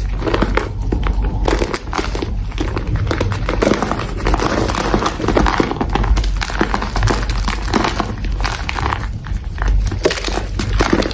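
Gym chalk being crushed, a close, continuous run of crunching and crackling as the powdery blocks break apart.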